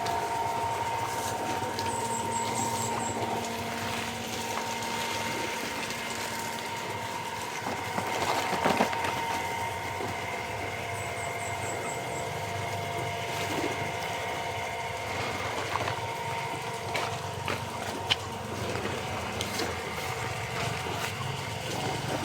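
Steady outdoor evening ambience: a continuous hum made of several held tones over a soft hiss, with short runs of rapid high ticks about every ten seconds and a brief swell about eight seconds in.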